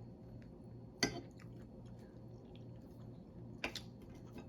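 Quiet eating sounds: soft wet mouth noises as food is chewed, broken by two sharp clicks, one about a second in and one near the end.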